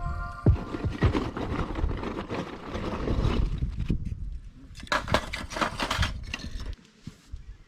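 Irregular knocks, clicks and rustling of things being handled, thinning out and stopping near the end.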